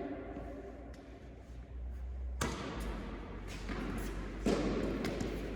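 Tennis ball thuds: a ball being struck and bouncing on an indoor court, a few scattered knocks with busier play noise starting about halfway through.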